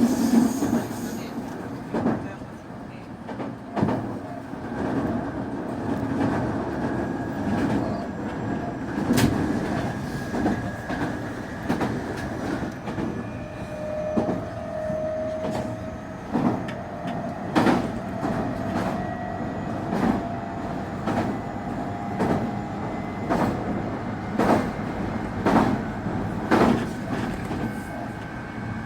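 Semboku 9300 series electric train running, its wheels knocking over rail joints every second or two. A thin whine from the Hitachi SiC VVVF inverter and traction motors slowly rises in pitch through the second half.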